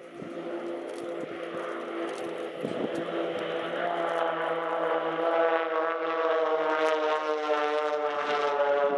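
Extra 300 aerobatic aircraft's piston engine and propeller droning, growing steadily louder as it comes closer, its pitch falling slightly near the end as it passes.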